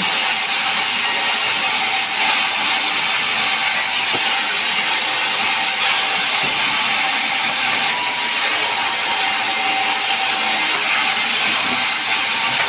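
Sawmill saw cutting pine logs into boards, a steady high hiss with no break.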